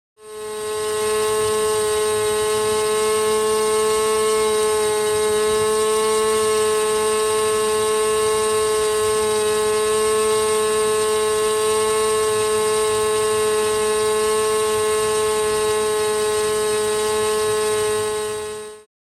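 OS 32SX two-stroke model glow engine running steadily at high speed on a test stand, turning a clipped APC 10.5x6 propeller, a high-pitched buzz with a constant pitch. It fades in just after the start and fades out just before the end.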